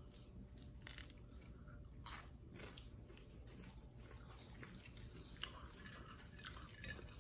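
Faint crunchy chewing and biting of a fried taro-and-shrimp fritter, with a few sharper crunches.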